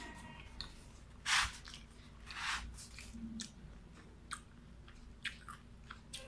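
A person chewing a salted egg chicken wing: scattered small crunches and mouth clicks, with two longer, louder noises about one and a half and two and a half seconds in.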